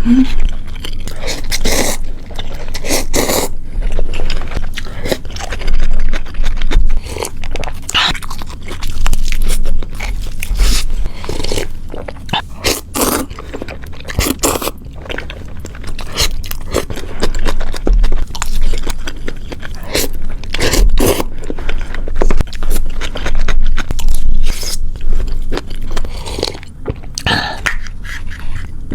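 Close-up eating sounds: a person biting and chewing food, with many irregular sharp crunches.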